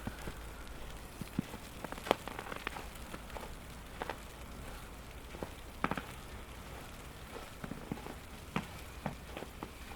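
Footsteps crunching in fresh snow, irregular short crunches, over a steady low rumble of strong wind on the microphone.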